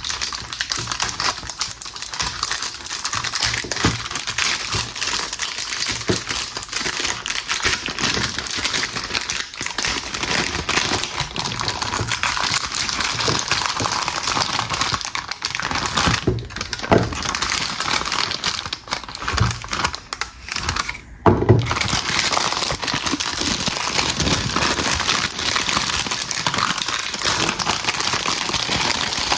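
Soap packaging being unwrapped: continuous crinkling and crackling of the wrapper with some tearing, and a short pause about two-thirds of the way through.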